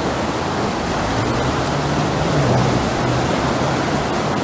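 Floodwater rushing through a street, a steady, dense rush of fast-moving water.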